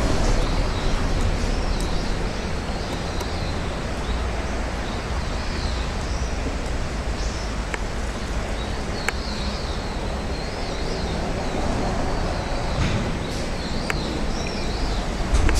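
Steady rumble of road traffic on the overhead road bridge, with faint, scattered high bird chirps and twitters through it and a few sharp clicks.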